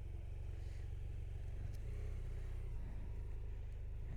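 Motorcycle engine running steadily at low revs, a constant low rumble with no revving.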